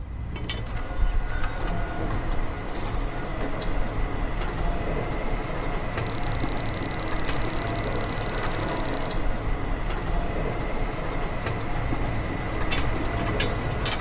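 Mini DC water pump inside a toy fuel dispenser, running steadily as it pumps liquid through the hose into a model tractor's tank. For about three seconds midway, a fast, high-pitched ticking like a dispenser counter joins it.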